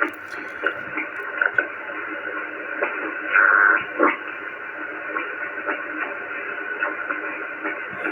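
Radio receiver static on a CB channel with no one transmitting: steady hiss cut off above the receiver's audio range, with scattered crackles and a brief whistling tone a little over three seconds in.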